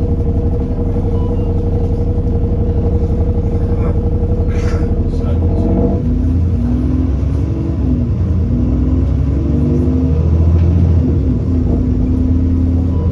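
Engine and drivetrain of an Alexander Dennis Enviro400 Trident double-decker bus heard on board. A steady hum runs for about six seconds, then gives way to tones that step up and down in pitch over the engine's low pulsing.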